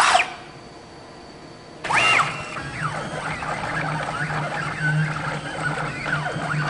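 Axis motors of a homemade CNC machine whining as it runs a cutting job, the pitch sliding up and down as the axes speed up and slow down, over a steady low hum. A brief falling whine sounds at the very start, and the continuous running begins about two seconds in.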